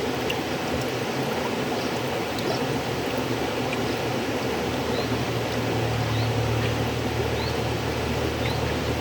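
River water flowing steadily: a continuous rushing with a low rumble that grows stronger about halfway through, and a few faint high splashes or bubbles.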